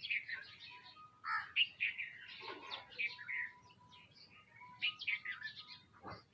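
Small birds chirping rapidly, several calls overlapping, with a thin steady whistle in the middle and a short knock near the end.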